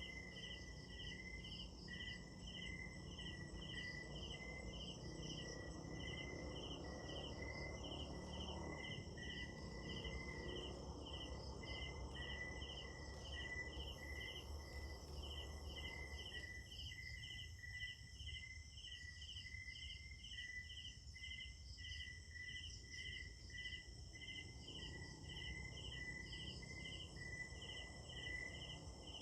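A chorus of night insects: an even, rhythmic chirping a little over twice a second, with a steady trill just under it and fainter buzzing higher up, over a soft background hum that comes and goes.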